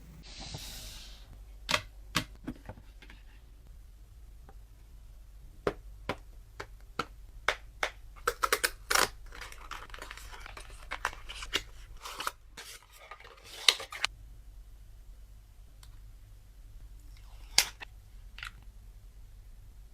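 Unboxing handling sounds: scattered sharp clicks and taps, with clusters of short crinkling and rustling bursts from packaging in the middle stretch and a couple more near the end.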